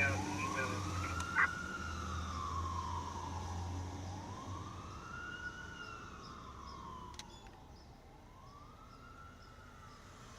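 Fire truck siren wailing in a slow rise and fall about every four seconds, fading steadily as the truck drives away. Its engine rumble fades out about halfway through, and there is one sharp click about a second and a half in.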